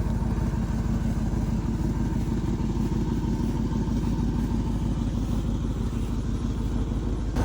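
Engine of a 2005 GMC dump truck running steadily with an even, rapid pulse.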